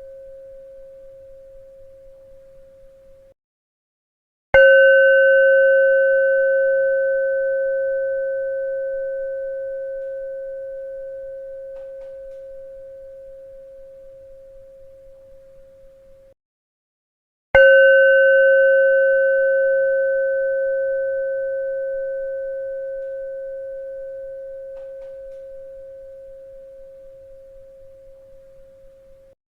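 A bell struck twice, about 13 seconds apart, each strike ringing at one steady pitch with fainter higher overtones and slowly dying away, wavering slightly as it fades. Each ring is cut off abruptly about a second before the next strike; the fading tail of an earlier strike is cut off just after the start.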